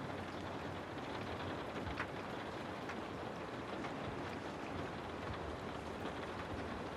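Steady rain falling on a surface, a continuous hiss with scattered individual drops ticking, one a little sharper about two seconds in.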